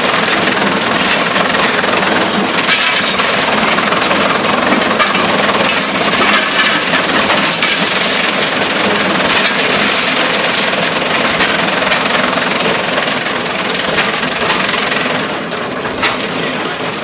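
Fodder cutter, belt-driven by a 5 hp Challenge gas engine, chopping dry corn stalks: a loud, steady chopping rush over the engine's running. The chopping eases off about two seconds before the end, leaving the engine and a few knocks.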